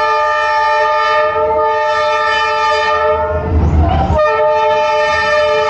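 Passing train's horn blowing a long held blast. It breaks off for about a second roughly three and a half seconds in, while the low rumble of the train swells, then sounds again.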